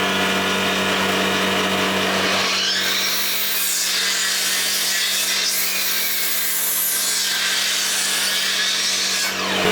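Electric saw running steadily, its blade cutting a compound mitre through a planed timber board from about two and a half seconds in until near the end, when the cut finishes with a brief dip and the motor runs on.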